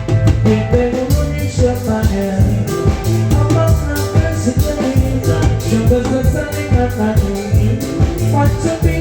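Live band playing an instrumental passage, with a steady drum beat, bass line and held melody notes.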